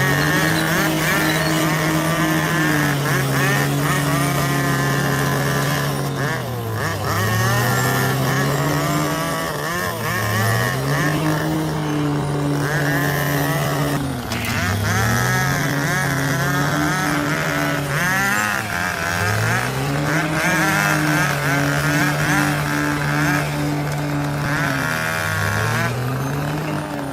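Bulldozer diesel engine running hard, its speed dipping and climbing back about every four to five seconds as the machine works, with a higher wavering squeal over it.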